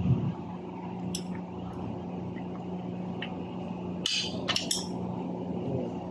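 Toyota Hilux engine running steadily, a low even hum. There are a few sharp clicks and knocks, one about a second in and a cluster around four to five seconds in.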